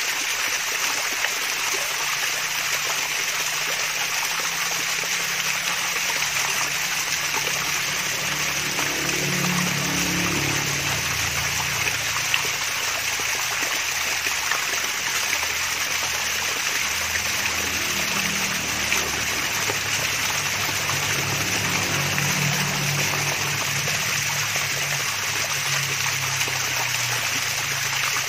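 Small waterfall's water splashing and trickling steadily, with a deeper gurgle that swells about a third of the way in and again later on.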